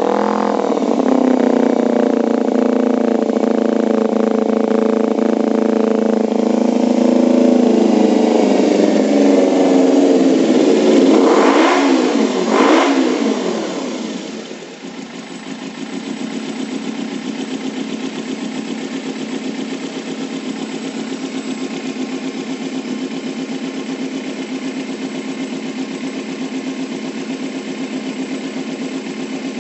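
Kawasaki Ninja 250 parallel-twin engine through an aftermarket racing exhaust, held at a steady raised rev for about eleven seconds, then blipped sharply twice. It drops back and settles into a steady idle for the rest of the time.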